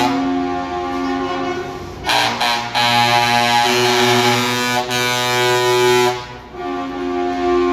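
Truck air horns sounding in long, overlapping blasts that form a held chord. The chord changes about two seconds in and again near the end, after a brief dip.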